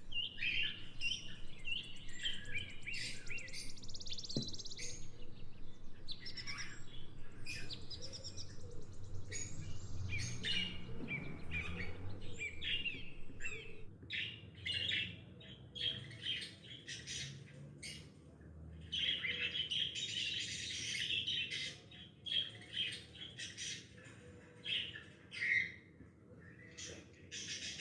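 Small birds chirping and twittering, many short high calls overlapping in a busy chorus that thins out for a few seconds near the end.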